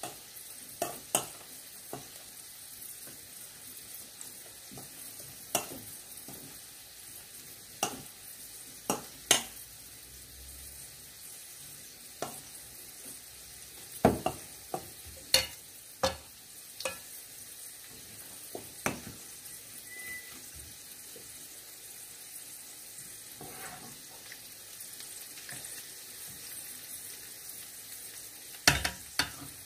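Okoy fritters of bean sprouts and vegetables frying in shallow oil in a nonstick pan: a steady sizzle with scattered sharp pops and clicks. A cluster of metal clinks in the middle comes with a spoon stirring batter in a stainless bowl, and a loud clink near the end with a fork in the pan.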